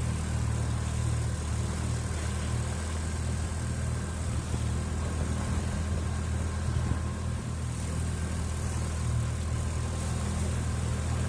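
Outboard motor of an inflatable boat running steadily: an even low engine hum.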